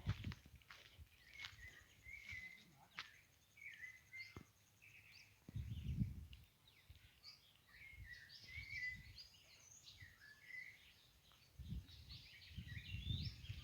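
Faint bird chirping: many short calls scattered throughout, with a few dull low rumbles, loudest about six seconds in and again near the end.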